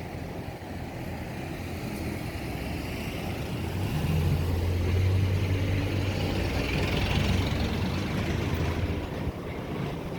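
Outdoor unit of a Panasonic (National-brand) packaged air conditioner running: a steady low hum with the rush of the fan's air over it, growing louder from about four seconds in and easing off near the end.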